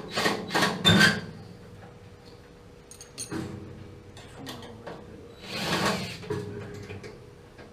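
Hand tools scraping and clinking against metal parts of a water heater's burner assembly. There are several quick scrapes in the first second, a couple of sharp clicks about three seconds in, and one longer scrape near the end.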